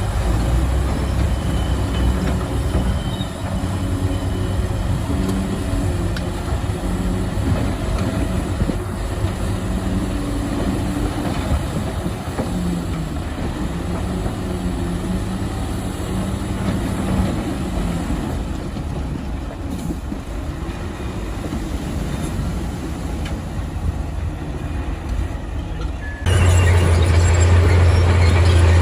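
Bulldozer's diesel engine running and working, its pitch rising and falling as it pushes. About 26 seconds in the sound cuts abruptly to a louder, steady low engine drone.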